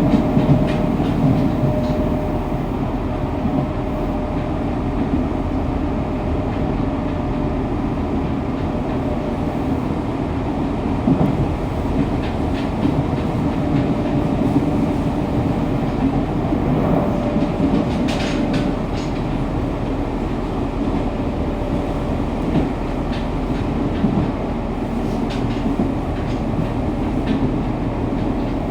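Fukuoka City Subway 2000-series train with Hitachi GTO-VVVF inverter running between stations, heard at floor level inside the car: a steady rumble of wheels on rail with clickety-clack, and a faint steady tone that comes and goes. A short sharp clatter stands out about eighteen seconds in.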